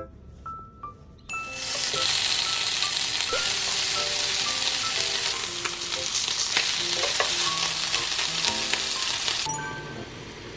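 Food sizzling and frying in a hot pan, a loud steady hiss that starts about a second in and cuts off suddenly near the end.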